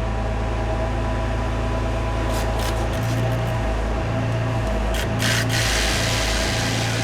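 Hand tools and bolts clicking and scraping against metal as exhaust manifold bolts are started, with a stretch of scraping about five seconds in, over a steady machine hum.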